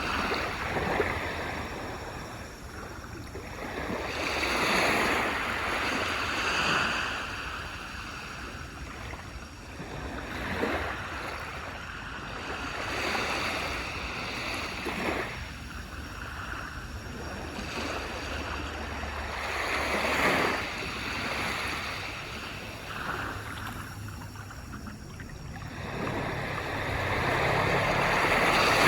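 Waves breaking and washing up a beach, the surf swelling and falling every few seconds.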